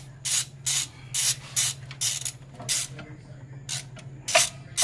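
Hand ratchet wrench worked in quick back-and-forth strokes, about two rasping ratchet runs a second, over a steady low hum.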